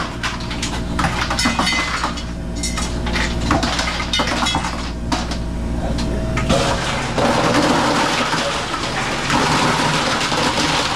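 Ice cubes clattering and clinking as a Hoshizaki ice machine runs its harvest after a compressor and valve replacement, over the machine's steady hum. From about six and a half seconds in, a louder steady rushing noise takes over.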